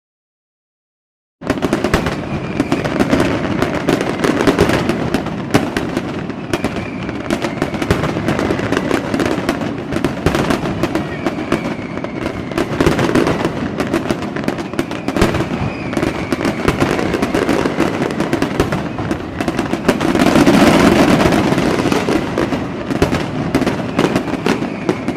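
Fireworks crackling and popping in a dense, unbroken barrage. It starts abruptly after a second and a half of silence and swells louder near the end.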